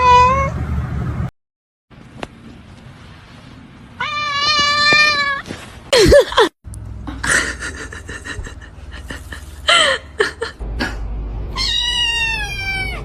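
Cats meowing: several separate meows, including a long one about four seconds in and a long meow that falls in pitch near the end.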